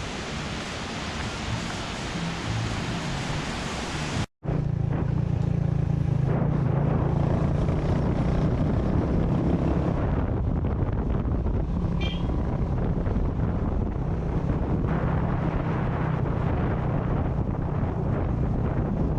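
A steady rushing noise, then after a sudden cut about four seconds in, a motorcycle engine running steadily on the move, with wind buffeting the microphone.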